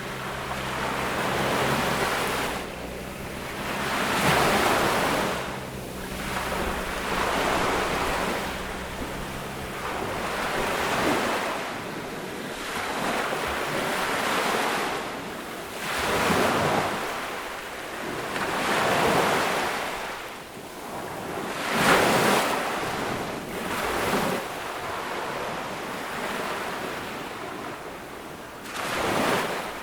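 Ocean waves breaking and washing up on a beach, the rush of surf swelling and falling every few seconds. A faint low hum sits under the surf for the first third, then stops.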